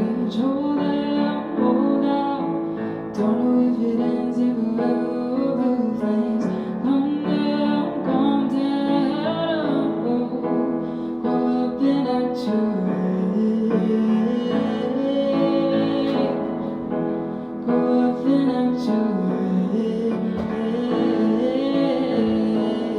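A woman singing a song over piano accompaniment, performed live.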